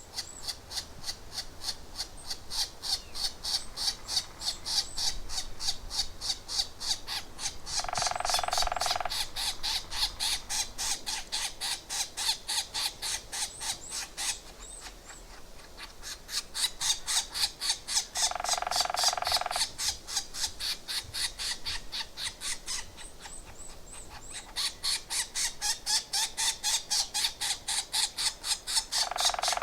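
Birds calling: long bouts of sharp, high, evenly repeated notes, about four a second, broken about every ten seconds by a lower, harsh squawking call lasting about a second.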